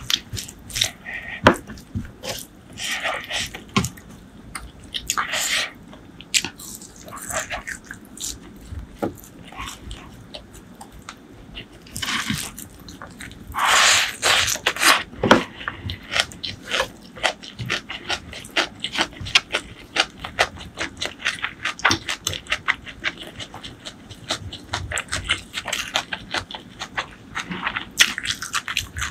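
Close-miked eating: wet chewing and smacking mouth clicks as curry, rice and greens are eaten by hand, in a dense, irregular run of clicks with a few longer wet rustles around the middle.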